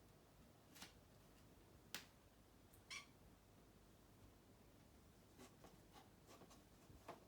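Three-month-old Bengal kitten making short, faint calls, the kind of odd noise it makes while stalking a fly. Three distinct calls come in the first three seconds, then a run of quieter ones near the end.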